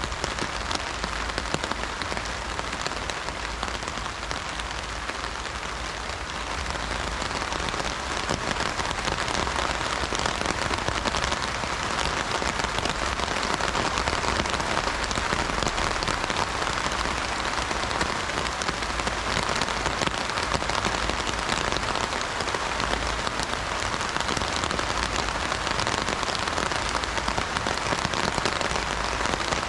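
Heavy rain falling on an umbrella: a dense, steady patter of drops, growing a little heavier about seven seconds in.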